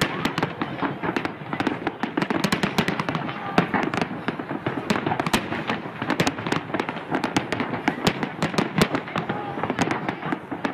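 Fireworks going off in quick succession: a dense, unbroken crackle of many sharp pops and bangs.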